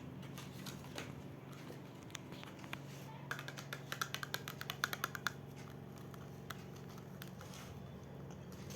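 A quick run of small, sharp clicks and taps for about two seconds in the middle, like objects being handled, over a steady low hum.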